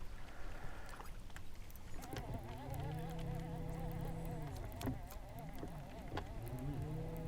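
Boat's electric trolling motor humming faintly. It spins up about two seconds in, runs at a steady pitch, winds down, and spins up again near the end.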